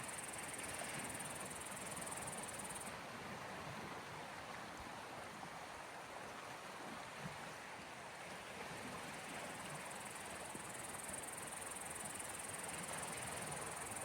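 Small waves of the Gulf of Finland washing on the shore, a steady soft rush of water. A faint high steady hiss stops about three seconds in and comes back near the end.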